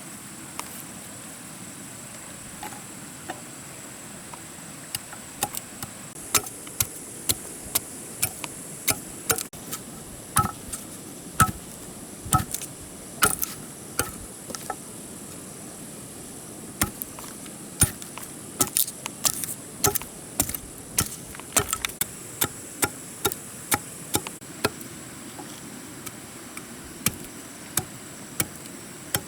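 Irregular sharp chopping knocks, often one or two a second with short pauses and quick doubles, over a steady high-pitched insect drone.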